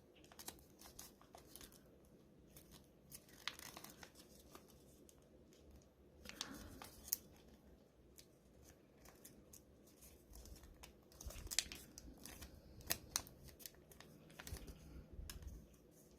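Origami paper being folded and creased by hand: faint, scattered crinkles and sharp paper clicks, louder around six seconds in and again from about eleven to thirteen seconds.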